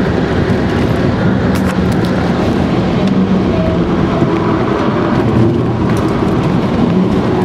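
Volvo five-cylinder turbo engine running hard at speed, heard inside the cabin together with tyre and wind noise; the engine note holds fairly steady, with a couple of brief clicks.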